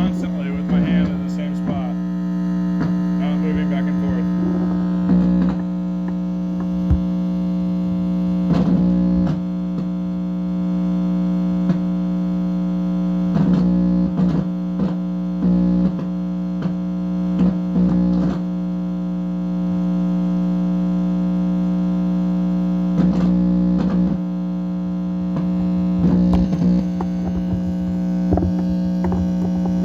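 Steady electrical hum and buzz, rich in overtones, from a PASCO microwave receiver's amplified audio output, with irregular crackles and warbling blips breaking in every few seconds.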